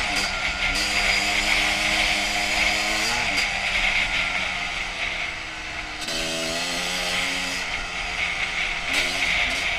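2001 Honda CR250's single-cylinder two-stroke engine running under way, its note held fairly steady with shifts in pitch about three and six seconds in, over a steady hiss.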